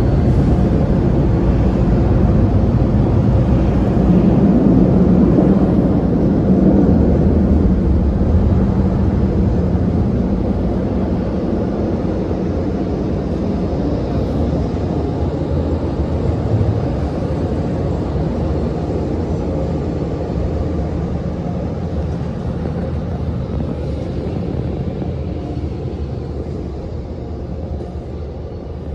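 Steady low rumble of automatic car wash machinery heard from inside the car. It slowly fades over the second half.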